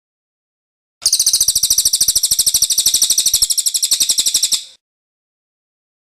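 Cililin bird singing its rolling song: one rapid trill of evenly repeated high notes, starting about a second in and lasting about three and a half seconds, then cutting off.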